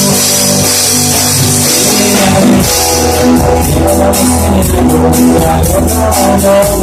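Instrumental passage of a rock song: electric guitars and a drum kit playing, with no singing.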